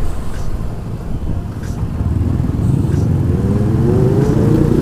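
Motorcycle engine running on the move, with a low wind rumble on the microphone; about three seconds in the engine note climbs steadily as the bike accelerates.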